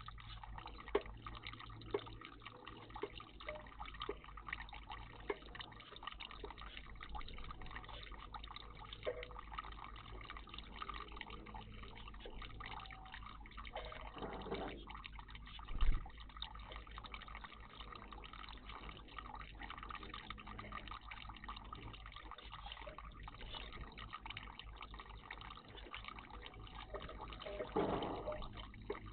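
Water trickling and dripping in a garden bird bath, with many small drips and a couple of louder splashes, about halfway through and near the end, and a short low thump just after the first.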